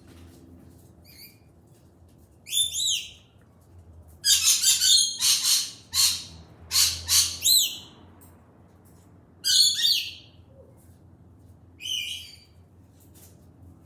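Pet bird calling: loud, high-pitched chirps and screeches in four bursts, the longest running about four seconds near the middle.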